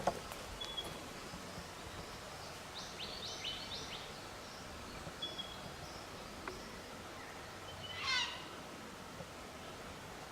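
Wild birds calling over steady bush background noise: a quick run of short high chirps about three seconds in, and a single loud call sweeping down in pitch near the end. A few sharp clicks are heard at the start and end.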